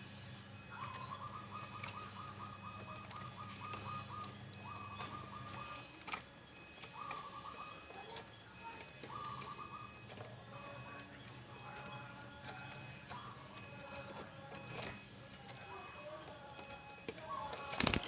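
Zebra dove (perkutut) cooing in rapid trilled phrases: a long one, then several shorter ones in the first ten seconds, with fainter calls after, over a low steady hum.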